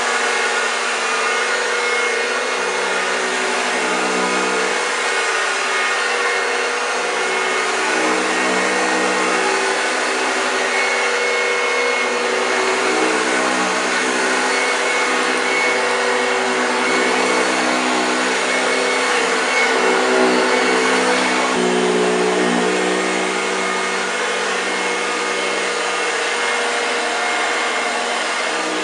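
1965 Hoover Junior 1334A upright vacuum cleaner running steadily, its motor hum over a hiss of airflow. The motor pitch shifts a little about three-quarters of the way through.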